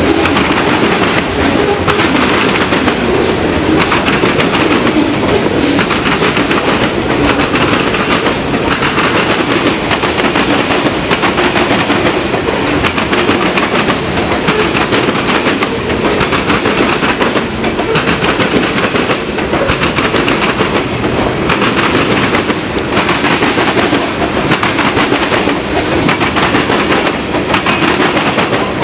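Slow freight train rolling past, its wheels clattering and knocking on the rails in a steady, rapid, continuous rattle.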